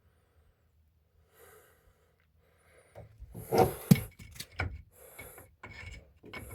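Transmission mounts being handled: after about three seconds of near quiet, a run of knocks and clunks with rustling in between, the loudest knock a little before four seconds in.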